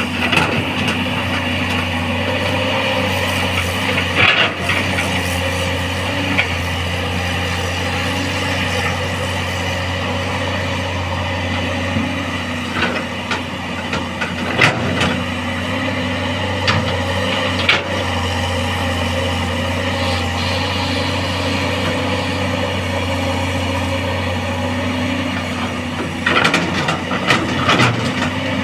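Caterpillar hydraulic excavator's diesel engine running steadily under load as the machine strains to climb out of mud, with a few sharp clanks now and then and several more near the end. Its travel motors have little power and it barely moves.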